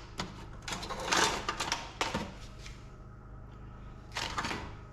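Wires and metal parts inside an equipment control panel being handled and pulled: a run of clatter and rustling for the first couple of seconds, then another short burst near the end.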